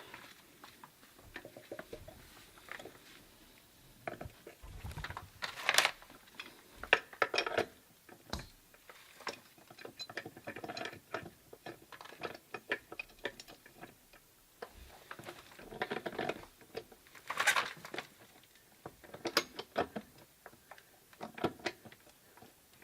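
Irregular clicks, taps and scrapes of metal plumbing fittings and hand tools being handled, with a few sharper knocks now and then.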